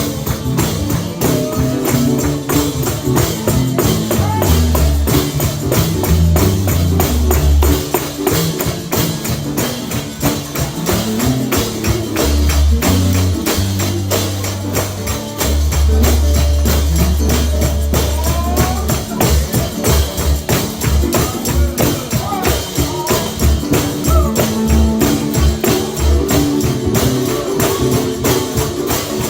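Upbeat live gospel music driven by a tambourine in a fast, steady rhythm, with deep bass notes held underneath.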